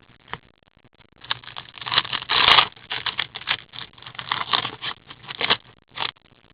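Trading cards and their packaging being handled close to the microphone: an irregular run of rustling, scraping and light clicking, loudest about two and a half seconds in.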